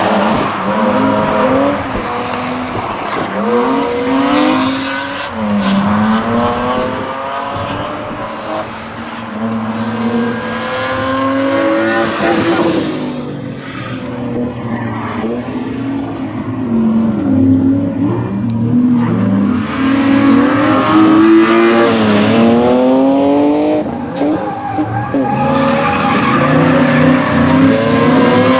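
Rally car engines revving hard, the note climbing and dropping back again and again through gear changes. Bursts of tyre noise come as the cars slide through corners.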